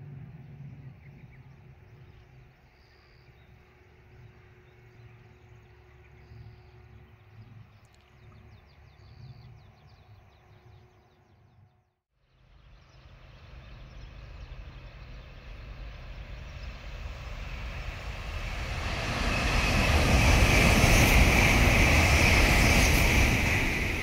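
Kyushu Shinkansen high-speed train approaching and passing on the viaduct: a rushing roar that builds over several seconds from about halfway, is loudest near the end, then starts to fade. Before it, quiet outdoor background with a few faint high chirps.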